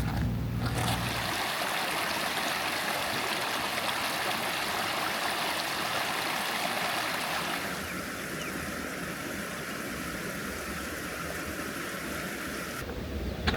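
Mountain stream running, a steady rush of water. The sound changes a little past halfway and cuts off abruptly near the end.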